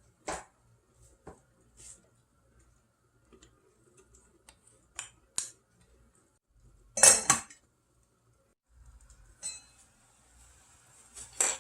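Kitchenware clinking and clattering as food is handled for mussel soup: a string of separate knocks, the loudest clatter about seven seconds in, with a faint hiss and another clank near the end.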